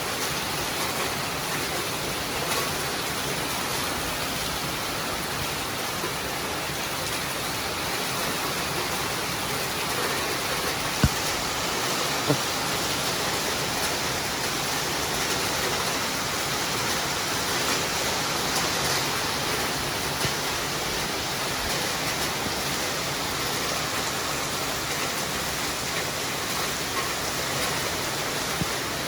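Steady rainfall, an even hiss of rain with a few sharp drip-like ticks, two louder ones about eleven and twelve seconds in.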